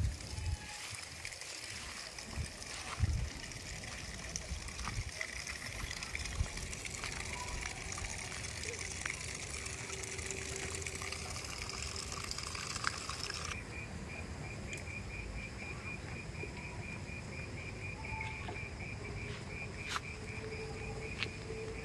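Outdoor ambience: a steady hissing rush with a few low thumps in the first seconds. From a little past halfway, an insect chirps in a rapid, even pulse.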